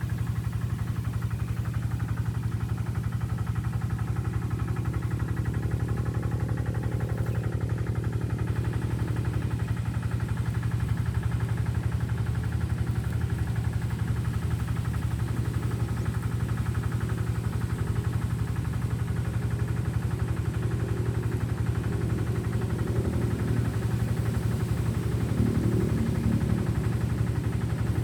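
A motor running steadily, a low even hum with no change in speed.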